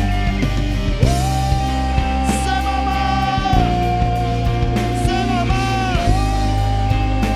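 Live worship band playing rock-style music: long held melody notes with slides over a steady bass and drum beat.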